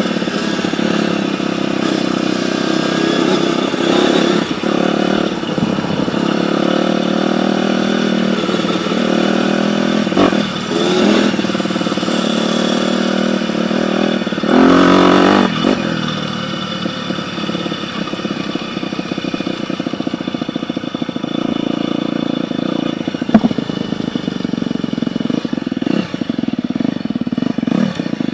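Dirt bike engine running and being revved, its pitch rising and falling, with a louder surge about halfway through.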